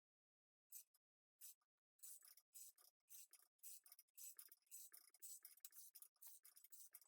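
Faint ratchet wrench clicking as a puller's forcing bolt is turned. A couple of single ticks come first, then from about two seconds in a fast, steady run of clicks.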